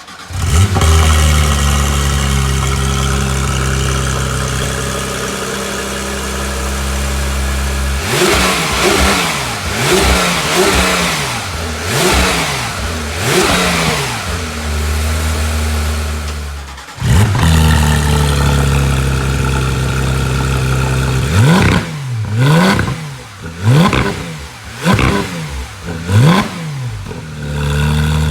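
2019 Porsche 911 GT3 RS's naturally aspirated 4.0-litre flat-six through a full iPE exhaust with headers, high-flow cats and titanium muffler: it starts up with a flare into a steady high idle, is blipped several times, cuts out briefly and restarts near the middle, then is given a series of quick, sharp throttle blips before settling back to idle.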